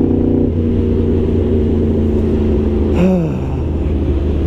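Yamaha R1 sport bike's inline-four engine running on the move; its steady note changes about half a second in, as the throttle is eased, and a short falling sound follows about three seconds in.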